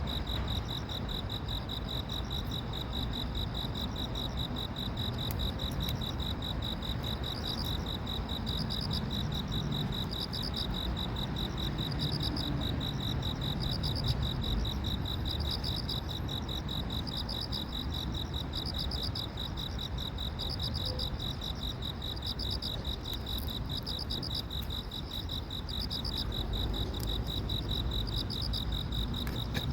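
Crickets chirping: one insect gives a continuous rapid high trill, while another a little higher chirps about once a second, over a low steady background rumble.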